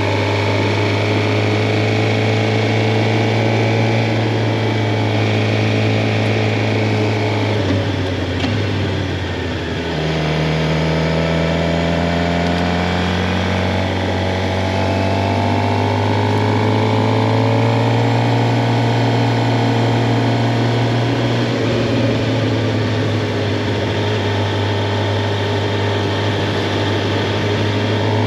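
2023 Suzuki GSX-R 750's inline-four engine running at steady, moderate revs while riding. About eight seconds in the revs drop and the note sags briefly, then it picks back up and holds with slow small changes in pitch.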